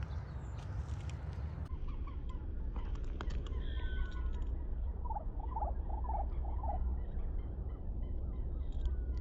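Wild birds calling, including a run of five quick chirps about halfway through, over a steady low rumble of wind on the microphone.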